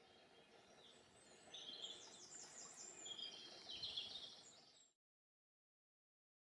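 Faint songbird singing in rapid trilled phrases, over a low outdoor hiss, cutting off to silence about five seconds in.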